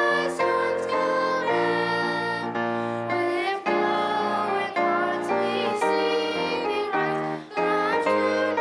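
Young voices singing a song with piano accompaniment.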